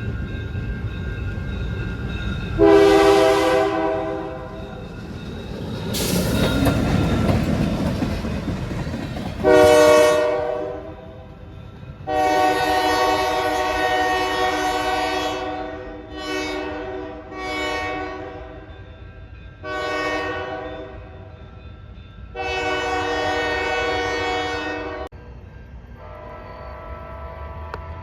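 Multi-chime diesel locomotive air horn sounding a series of seven blasts, short and long, over the low rumble of the train. About six seconds in, a sharp crack is followed by a low rumble lasting a couple of seconds.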